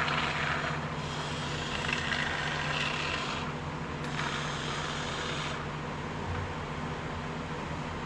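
Can of expanding spray foam hissing in three short squirts of about a second or two each, over a steady low mechanical hum.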